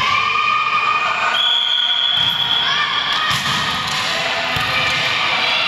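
Basketballs bouncing on a court floor, giving a few dull thuds, with high held squeaky tones over the top.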